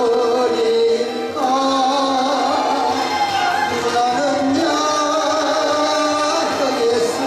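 Music with a singing voice, holding long notes that step up and down in a melody.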